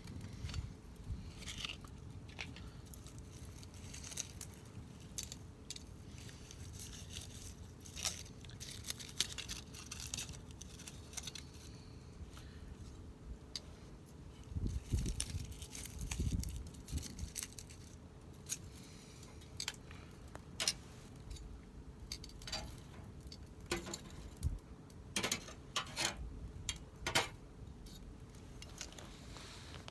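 Wood fire burning and crackling, with irregular sharp pops and snaps over a low rumble; the pops come thickest around the middle and again near the end.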